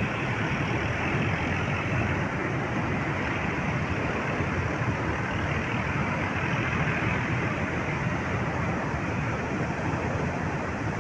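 Hill-torrent floodwater rushing over a canal: a loud, steady, unbroken rush.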